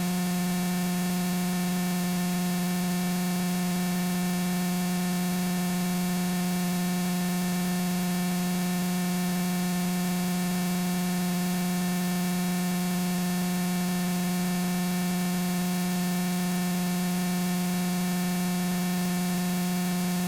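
A steady, unchanging electrical hum with hiss on the aircraft's radio and intercom audio feed, heard in the gap between radio transmissions.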